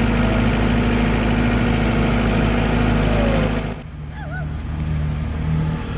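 Tractor engine running steadily at idle, with a low, even hum. About four seconds in it cuts off abruptly to a quieter, different engine hum.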